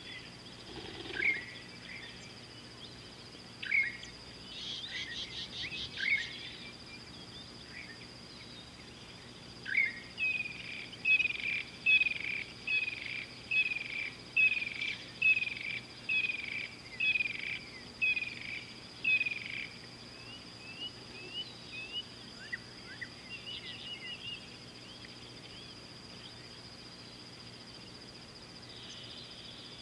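Wild bird calling: single sharp downslurred notes every couple of seconds, a short rattle about five seconds in, then a run of about a dozen quick downslurred notes, roughly two a second, from about ten to twenty seconds in. A steady high-pitched whine runs underneath.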